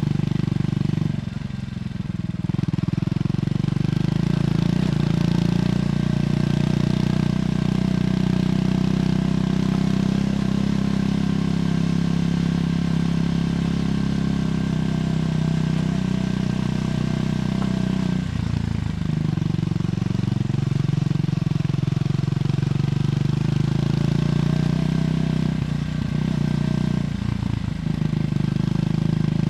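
Triumph Scrambler 400X's single-cylinder engine through its stock exhaust, running steadily under way. It dips briefly three times, about two seconds in, near the middle and near the end, each time with the pitch climbing back up afterwards.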